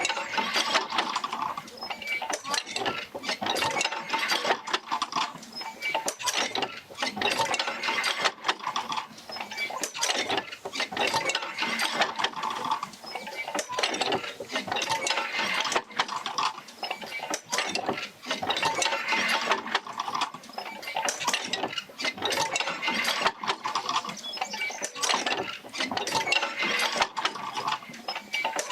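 Oil-field wheel rocking back and forth as it drives the jerker lines to the pumps: continuous clicking, creaking and clanking of the mechanism, swelling in a slow cycle about every three seconds.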